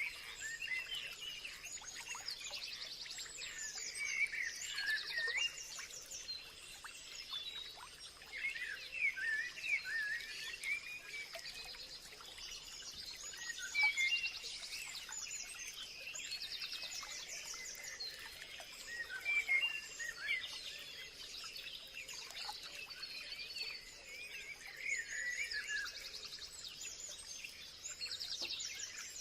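Several birds chirping and singing in overlapping bursts of short calls and whistled phrases, over a faint steady high tone.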